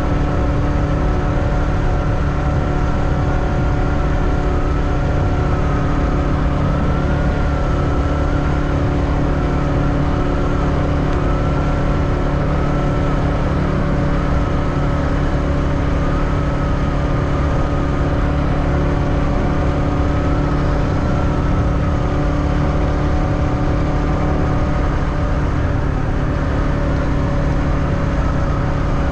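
Motorbike engine running steadily while riding, its pitch wavering only slightly up and down over a loud low rumble.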